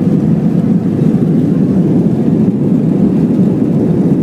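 Steady low rumble of an airliner's engines and airflow heard inside the passenger cabin while the plane is still on the ground before lift-off.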